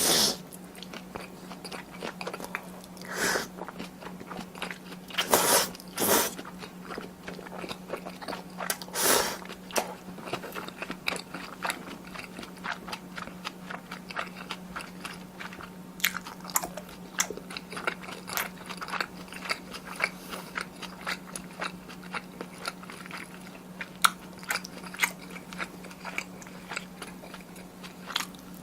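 Close-miked chewing and mouth sounds of someone eating spicy tteokbokki with Chinese glass noodles. There are a few louder, longer bursts in the first ten seconds, then a steady run of small, quick mouth clicks. A faint steady hum lies under it all.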